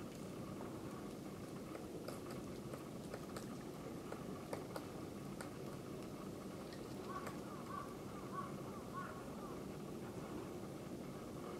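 Great spotted woodpecker pecking at oak bark: single, irregularly spaced taps rather than a drum roll, over steady outdoor background noise. A short run of bird calls comes about two-thirds of the way through.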